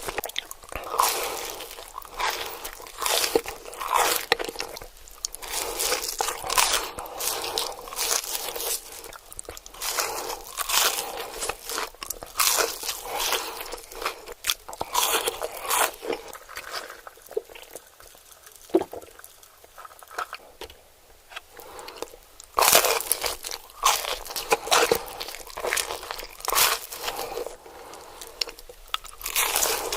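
Close-miked ASMR eating: crunchy bites into pizza and breaded chicken nuggets, one after another in quick succession, with a quieter stretch a little past the middle.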